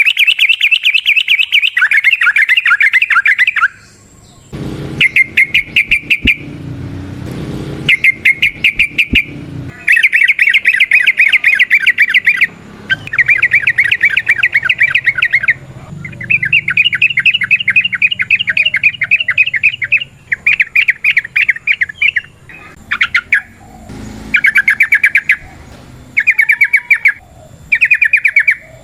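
Yellow-vented bulbul (trucukan) singing its long, rapid chattering 'ropel' song: fast runs of repeated notes in phrases of about one to five seconds, separated by short pauses.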